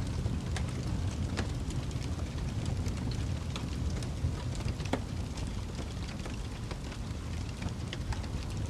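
Wood fire burning in a fireplace: a steady low rumble of flames with irregular sharp crackles and pops scattered through it.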